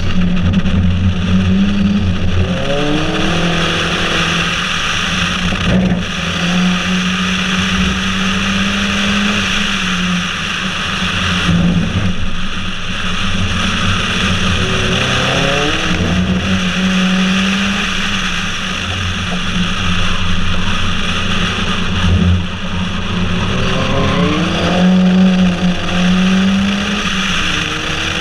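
Ford Focus RS Mk1's turbocharged 2.0-litre four-cylinder engine, fitted with a Milltek exhaust, pulling hard on track, its note climbing three times as it accelerates out of corners, over a steady wind rush from the outside of the moving car.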